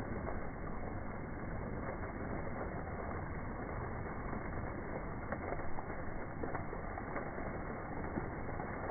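Indoor mall waterfall splashing in a steady rush, slowed down by slow-motion playback so it sounds low and dull, with a few faint clicks.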